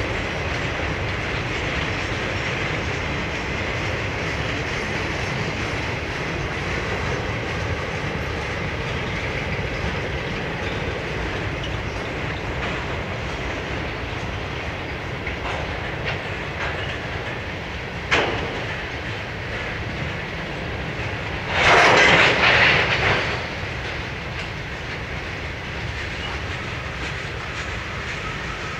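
Freight cars of a passing manifest train rolling by with a steady rumble and wheel clickety-clack. There is one sharp click about two-thirds of the way through, and a few seconds later a louder burst of noise lasting about two seconds.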